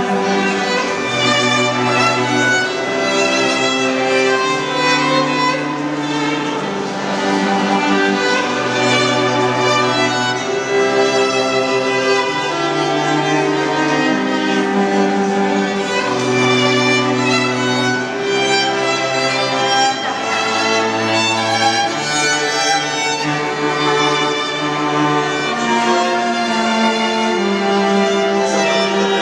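String quartet of two violins, viola and cello playing live: the violins carry a melody over held cello bass notes that change every second or two.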